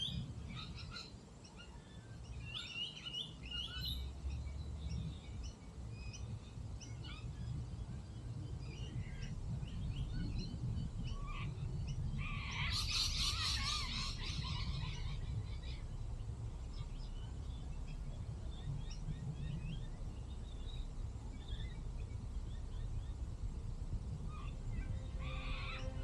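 Wild birds chirping: short scattered calls throughout, with one loud, rapid flurry of calls about halfway through, over a steady low rumble.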